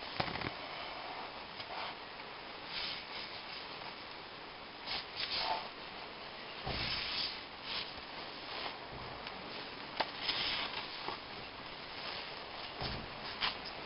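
Irregular scraping and rubbing of hand tools working on a cylinder head, broken by short clicks and a few dull knocks.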